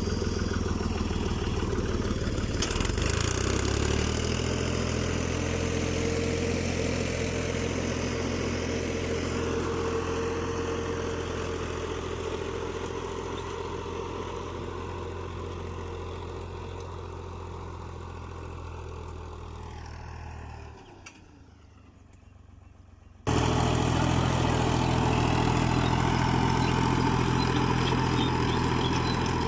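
Fiat 480 tractor's diesel engine running steadily while pulling a nine-tine cultivator. It fades gradually as the tractor moves off, drops away almost entirely for about two seconds, then comes back suddenly loud about 23 seconds in.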